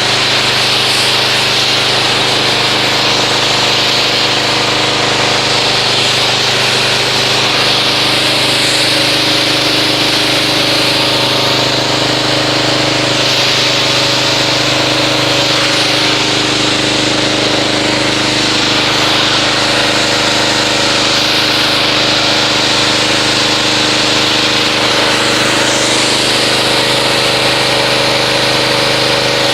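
Pressure washer running steadily with the hiss of its water jet, rinsing car-wash foam off a car's paint.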